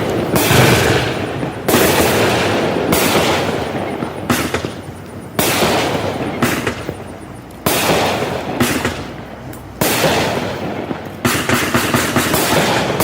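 Black Cat 'Wild Wild West' consumer firework firing: a string of sharp bangs every one to two seconds, each trailing off into crackling, with a quick run of rapid cracks near the end.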